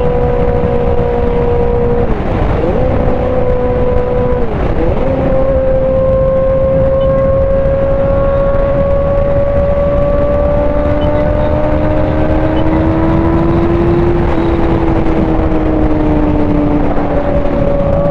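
Sport motorcycle engine running at highway speed under heavy wind rush. The engine note dips sharply and recovers twice in the first few seconds, then climbs slowly as the bike accelerates.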